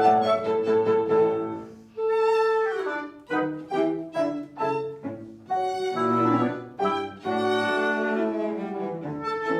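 Classical chamber music played live by a small ensemble of violin, cello, clarinet, oboe and piano, with bowed strings prominent. A phrase fades out just before two seconds in, and a new phrase begins with separately struck notes.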